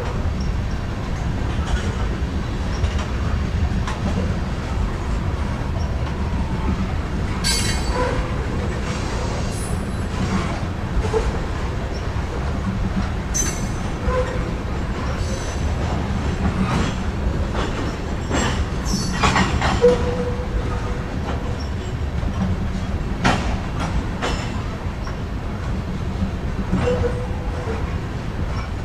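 Norfolk Southern covered hopper cars rolling past on steel rails: a steady low rumble of wheels on track. Sharp clicks and clanks come every few seconds, and brief wheel squeals are heard about two-thirds of the way in and again near the end.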